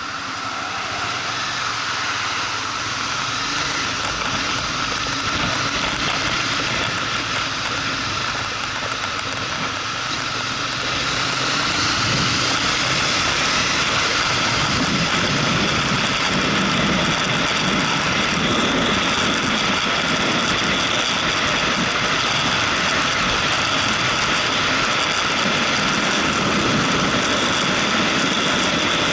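Motorcycle engine running while riding, mixed with road and wind noise, getting louder about eleven seconds in.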